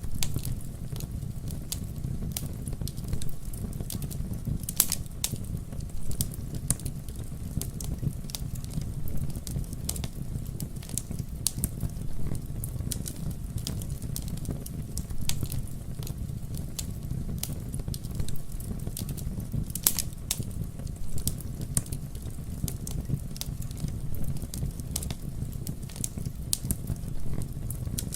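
Campfire burning: a steady low rumble of flames with frequent irregular crackles and a few sharper pops.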